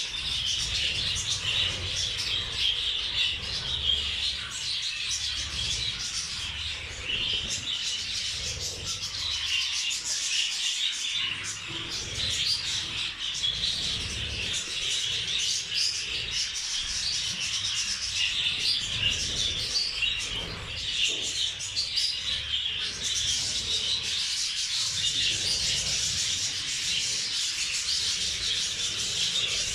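A flock of budgerigars chattering continuously, a dense, unbroken twittering, with a low rumble underneath.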